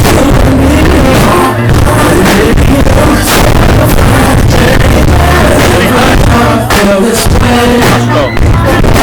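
Live R&B concert music over a PA: a voice singing over a loud, bass-heavy beat, recorded very loud and harsh, with badly distorted sound.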